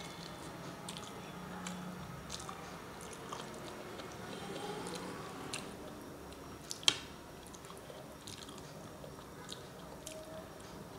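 Close-up chewing and wet mouth sounds of someone eating rice and curry by hand, with soft scattered clicks and squishes of fingers mixing food on a paper plate. One sharp click about seven seconds in is the loudest sound.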